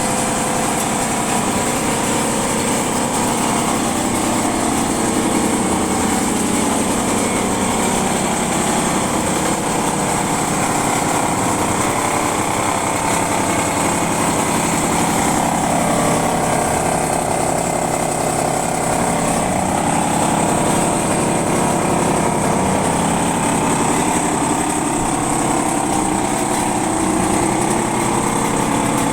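Honda Joker 50 scooter's small two-stroke engine running steadily at idle, with a rattly mechanical note.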